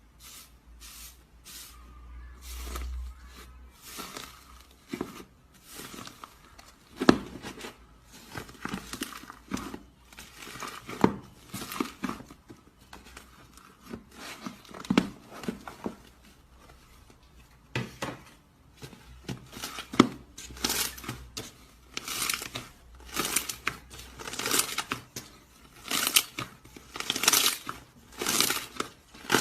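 Slime being squeezed, stretched and pulled apart by hand, giving short irregular crackling and tearing sounds about one or two a second, louder in the second half.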